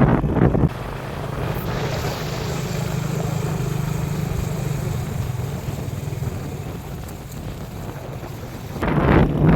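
Small engine running steadily at an even speed, with wind rushing on the microphone; the rushing is louder for the first second and again near the end.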